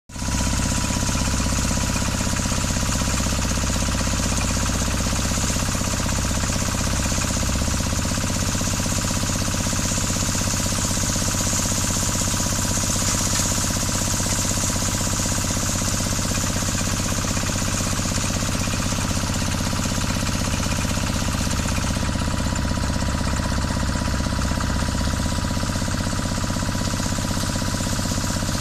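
Small water well drilling rig at work: its engine running steadily under the fast, even hammering of a 90 down-the-hole air hammer drilling with a 120 mm bit.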